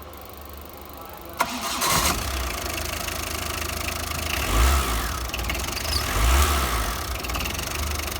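TATA Super Ace diesel engine being started: a click, a brief crank, and it catches about a second and a half in. It then runs with a deep rumble that rises twice, after work on its heater (glow) plugs.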